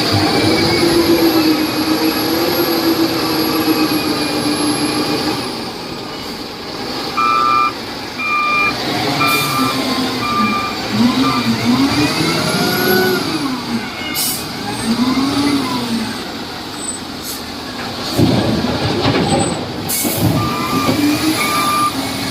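LiuGong 848H wheel loader's diesel engine revving up and down repeatedly as it works. A reversing alarm beeps steadily in two spells, and there is a loud rushing noise about eighteen seconds in.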